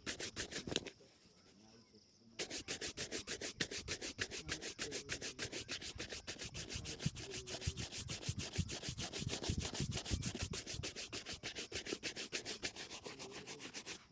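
A shoe brush scrubbing a shoe in fast back-and-forth strokes, several a second. A short run of strokes comes in the first second, then a brief pause, then steady brushing through to just before the end.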